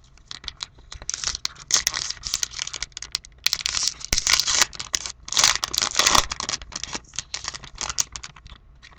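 A baseball card pack's wrapper being torn open and crinkled by hand, with irregular crackling and rustling that is densest in the middle.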